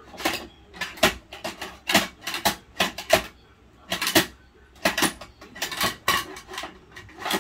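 Hard plastic clattering and knocking from a Bruder toy garbage truck and its toy bins being handled: a quick, irregular run of sharp clicks and knocks in small clusters.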